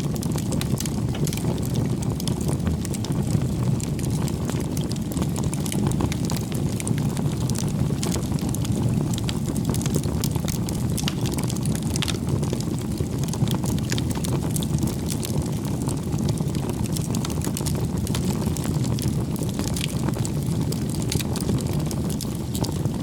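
Campfire burning: a steady low rush of flames with frequent sharp crackles and pops.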